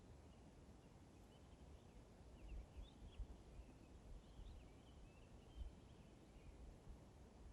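Near silence outdoors: faint, distant birdsong of short high chirps, over a low rumble with a few soft low bumps in the middle.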